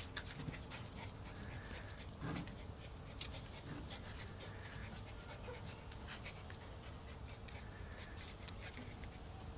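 Cairn terrier puppies playing: soft panting with scattered small clicks and scuffles throughout, and a brief louder sound about two seconds in.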